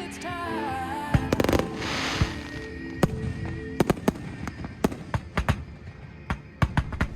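Fireworks going off: a few loud bangs with a hiss in the first two seconds, then from about three seconds in a rapid, irregular scatter of sharp crackling pops. Music plays under the first couple of seconds.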